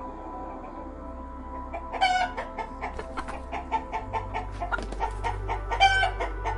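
Chickens clucking in a quick run of short clucks, with two louder calls, one about two seconds in and one near the end, over steady background music.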